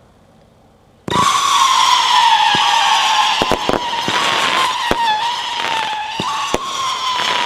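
Magnus Midnight Howling firework cake firing: about a second in, a loud whistle starts and holds, slowly falling in pitch, with sharp pops of shots going off through it.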